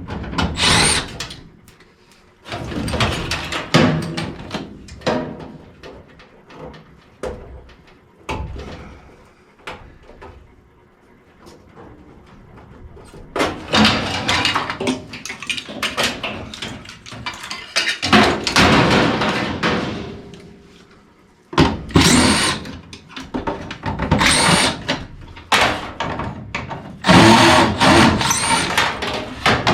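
Tool work on a gas furnace: short runs of a power driver among irregular knocks and clatter of metal parts and tools.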